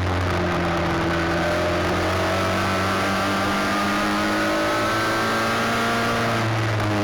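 Race car engine running at speed, its pitch slowly rising and falling.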